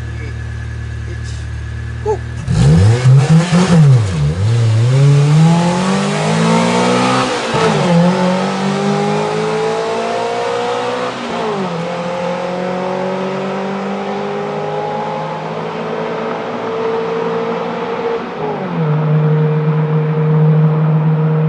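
Mitsubishi Pajero Mini's exhaust through a Legalis K aftermarket muffler, echoing in a tunnel. It idles, blips a few sharp revs about two and a half seconds in, then accelerates hard with its pitch climbing and dropping at three gear changes, and settles into a steady cruise near the end.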